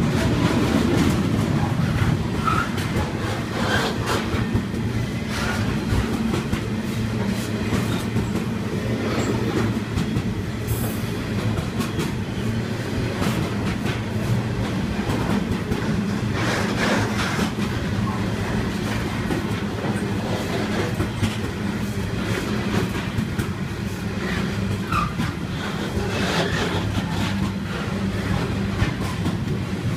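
Long coal train's wagons rolling through the station, a steady low rumble with scattered clicks of wheels over rail joints.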